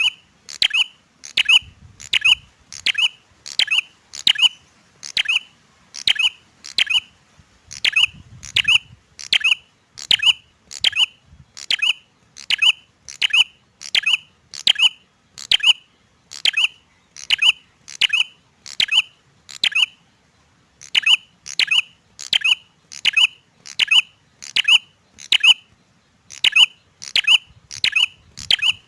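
Male prinia (prenjak) giving one sharp, clicking call over and over, a little more than once a second, with a short pause about twenty seconds in.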